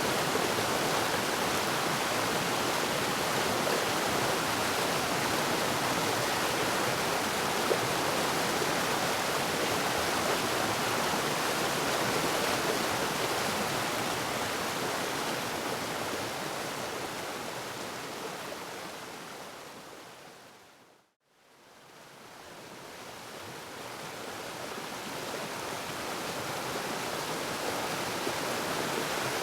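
Waterfall rushing in a steady, even roar of falling water. About two-thirds of the way through it fades out to a moment of silence and then fades back in, as at the loop point of the recording.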